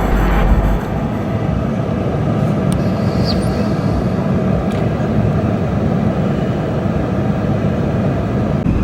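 Steady road and engine noise of a car being driven, heard from inside the cabin: a dense rumble with a heavier low drone that drops away about a second in.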